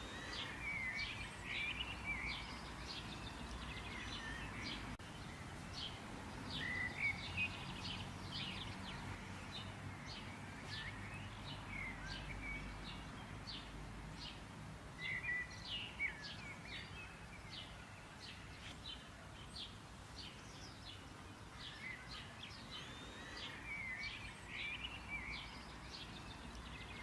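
Birds chirping and calling, many short chirps and quick swooping notes repeating through the whole stretch, over a low steady background rumble.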